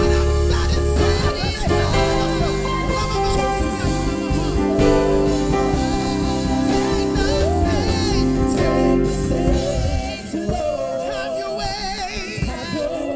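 Live gospel worship music: band chords and a strong bass under wavering, wordless sung vocal lines. About ten seconds in the bass and fuller band drop away, leaving the voices over lighter accompaniment.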